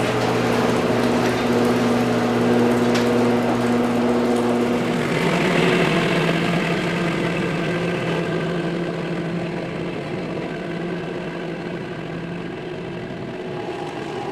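An engine running steadily, its pitch dropping to a lower speed about five seconds in, with a couple of faint clicks early on.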